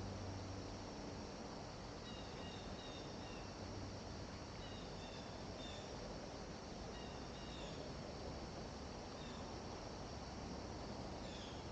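Small birds chirping: short, high notes in quick groups of two or three, repeating every couple of seconds over a steady outdoor hiss with a faint insect trill. A low hum fades out in the first second.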